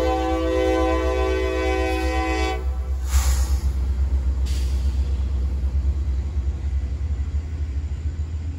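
Norfolk Southern freight train passing: a diesel locomotive's multi-note air horn holds a steady chord that cuts off about two and a half seconds in, over the steady low rumble of the locomotives and freight cars rolling by. A brief hiss follows about three seconds in.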